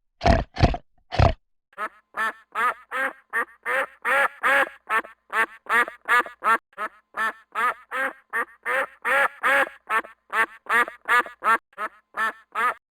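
Duck quacking in a long rapid series, about two to three quacks a second. It is preceded by three short, deep animal calls in the first second or so.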